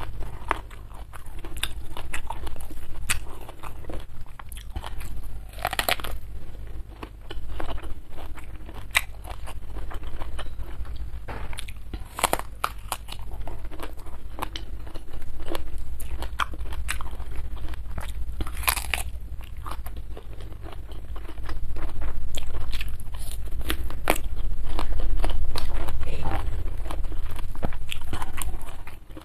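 Close-miked chewing and biting of crunchy raw vegetables with rice, mainly raw round green eggplant. Sharp, irregular crunches come between wetter chewing, and the crunching is louder near the end.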